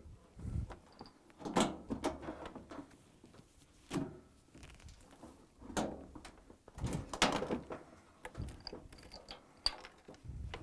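Irregular knocks and clunks as a Samsung washer tub is lifted and a metal suspension spring is hooked onto the cabinet. The loudest clunks come about seven seconds in.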